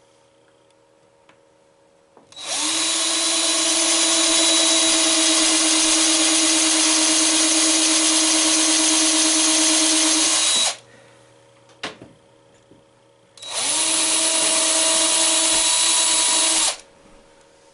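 Power drill with a 7/64 inch bit drilling two holes into a wooden pinball playfield: a long run of about eight seconds, then a shorter one of about three seconds, the motor running at a steady pitch. A short click falls between the two runs.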